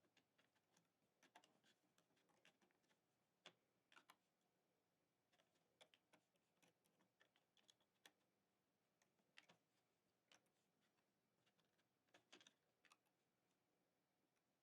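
Faint, irregular clicks and taps of a plastic loom and hook being handled as rubber bands are looped onto its pegs.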